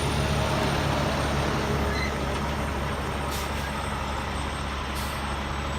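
Big truck's engine running low and steady while it turns around, easing slightly quieter over the few seconds.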